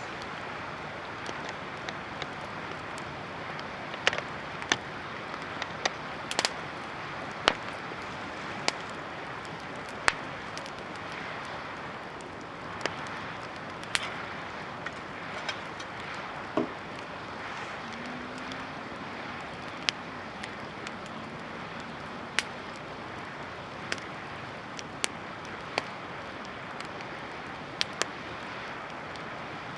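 Dried-driftwood campfire burning well, with sharp crackles and pops every second or two over a steady rushing hiss.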